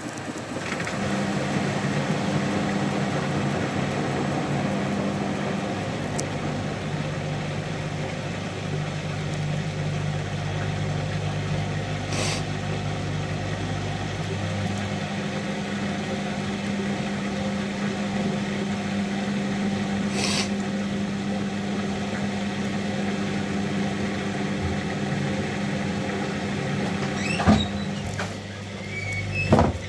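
Hotpoint Active Care washing machine's drum spinning in its final spin cycle: a steady motor hum and whir, its tone shifting about halfway through, with a few brief clicks or knocks.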